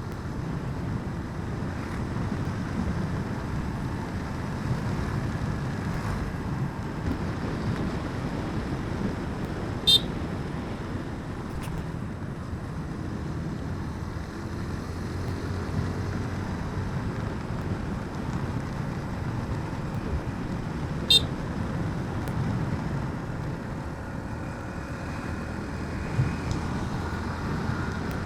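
Motorbike on the road: steady engine and wind rumble, with two short high horn beeps about eleven seconds apart.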